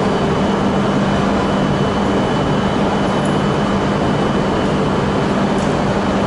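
Steady hum and rushing noise from coupled E5 and E6 series shinkansen trains standing at the platform, their onboard equipment running, with a faint steady high whine.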